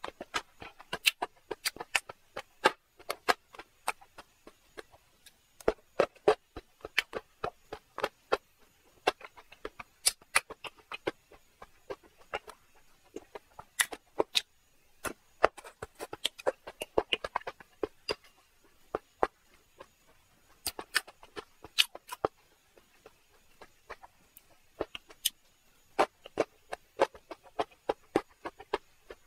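Close-miked mukbang eating sounds: mouth chewing and smacking on soft food, a rapid, irregular run of sharp clicks and smacks picked up by a lapel microphone.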